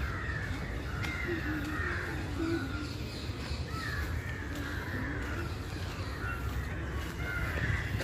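Birds calling over and over, short calls following one another, over a low steady rumble.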